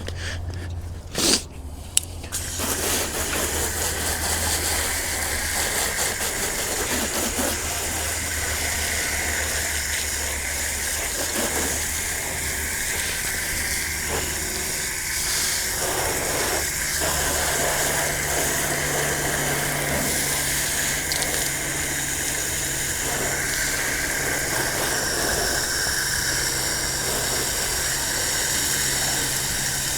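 Pressure washer rinsing a car: a steady hiss of water spray over the low hum of the washer's pump. The spray starts about two seconds in, after a couple of short bursts.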